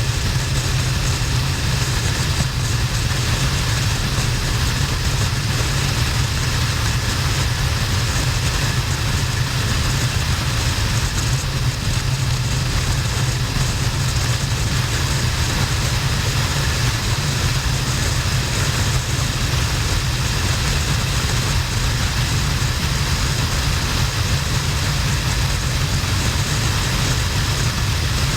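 Harley-Davidson XL1200N's air-cooled V-twin running steadily under a heavy, even rush of wind noise, with a strong low rumble.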